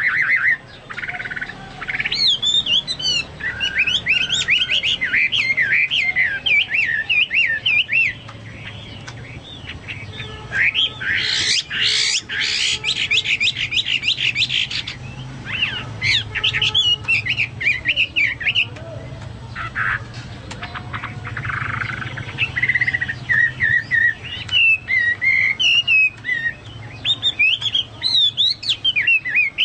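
Chinese hwamei singing in full voice (gacor): a fast, varied song of whistled phrases, with a dense run of rapid notes in the middle and short pauses between phrases. The song resembles that of a cucak mas (leafbird).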